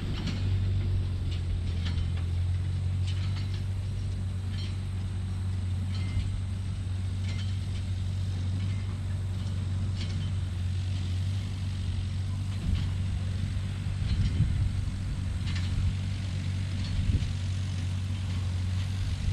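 Ford 8N tractor's four-cylinder petrol engine running steadily, with scattered light clicks over its low hum.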